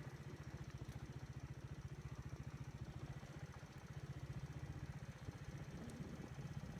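Single-cylinder 125 cc engine of a Forte Alpha motorcycle running at low, steady revs, an even rapid low pulsing.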